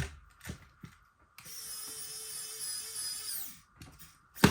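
Small cordless electric screwdriver running for about two seconds at a steady pitch, then winding down as it stops, driving a screw into the console shell. A few light clicks come before it and a sharp knock near the end.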